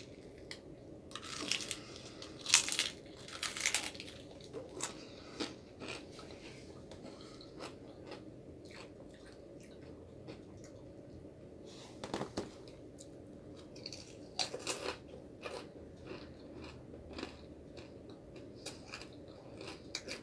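Close-up crunching and chewing of a fried crab rangoon, in irregular crisp bites, loudest in the first few seconds and again about two-thirds of the way through, over a faint steady hum.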